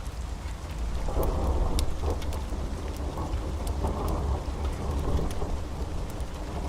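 Rolling thunder over steady rain. The rumble swells about a second in and then keeps going, with scattered sharp ticks on top.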